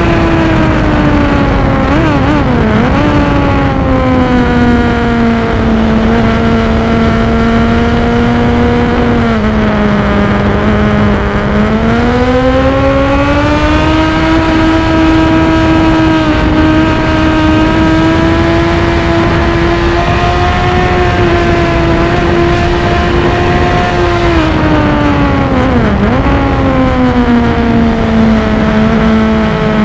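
Sport motorcycle engine heard from an onboard camera at track speed, over steady wind rush. The engine note drops with quick throttle blips on downshifts about two to three seconds in, holds lower, climbs again around twelve seconds, and falls through more blipped downshifts around twenty-five seconds.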